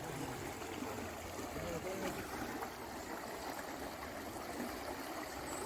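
Stream water running steadily, a continuous rushing and trickling where the salmon are running, with faint distant voices about two seconds in.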